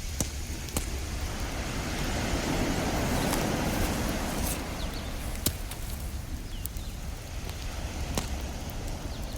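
Ocean waves washing steadily, one wave swelling from about two to four seconds in, with a wood campfire crackling and giving a few sharp pops over it.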